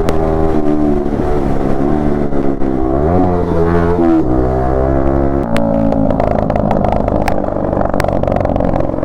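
Yamaha MT-15 V2's 155 cc single-cylinder engine and exhaust running under way, holding a steady note that swings up and down in revs a little after three seconds and steps to new pitches about four and five and a half seconds in, as at gear changes. Scattered sharp clicks sound over it.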